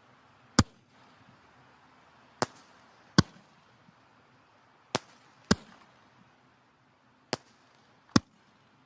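Wood fire crackling in a fireplace: seven sharp pops at irregular intervals over a faint hiss of burning logs.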